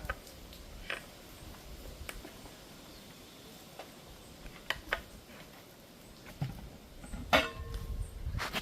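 Scattered light clicks and knocks of kitchen utensils and dishes being handled, with one louder clank about seven seconds in that rings briefly like struck metal.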